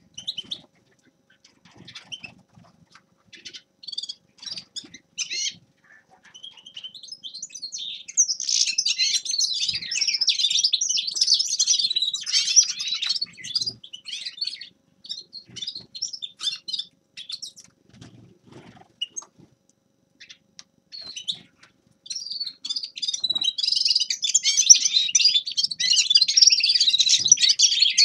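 A finch singing a rapid, twittering song. Short scattered calls build into a dense run of song about a third of the way in, and the song comes back loud and continuous near the end.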